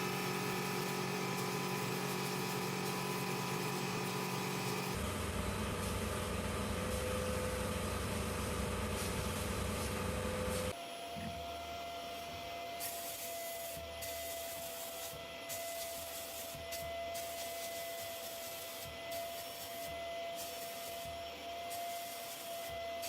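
Small electric power tool running steadily with an abrasive rubbing against steel, as in sanding or grinding the scissor blades. The motor's pitch changes abruptly twice, about five and eleven seconds in.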